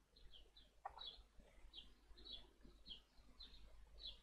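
Faint, high chirps of a small bird, short notes repeated every half second or so, with a soft click about a second in.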